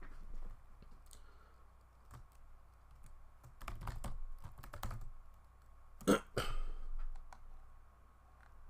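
Typing on a computer keyboard: two short runs of keystroke clicks, the first a few seconds in and the second about a second later.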